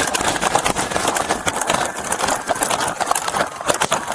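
Running footsteps heard through a body-worn camera, with the camera jostling and clothing rubbing against it during a foot chase.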